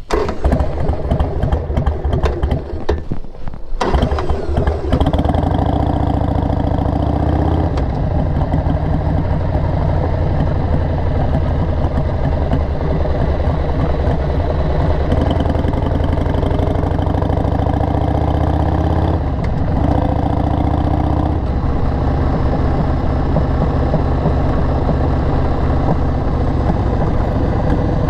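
2002 Harley-Davidson XL883R Sportster's 883 cc air-cooled V-twin running through Cobra 909 Speedster Short mufflers. It runs unevenly for the first few seconds, then settles into a steady run from about four seconds in, with the pitch shifting a few times as the revs change.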